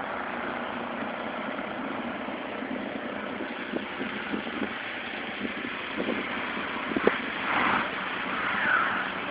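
Car engine running steadily as a car stuck in deep snow is driven back and forth, with a few light knocks in the middle and a brief whine that rises and falls near the end.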